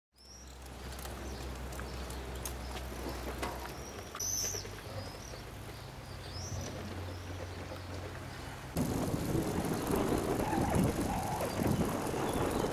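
Birds chirping a few short times over a low steady hum. About nine seconds in the sound cuts to a louder, steady rushing noise.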